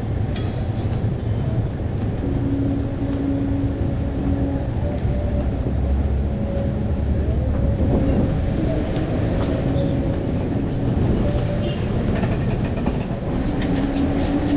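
Trains running inside a large railway station: a steady low rumble with a hum that comes and goes on a couple of steady pitches, and a few faint clicks.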